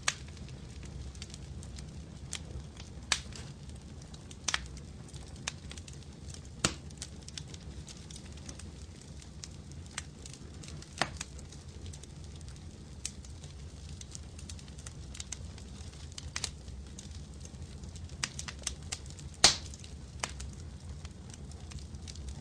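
Fireplace fire burning with a steady low rumble and irregular sharp crackles and pops of burning wood, a loud pop about three-quarters of the way through.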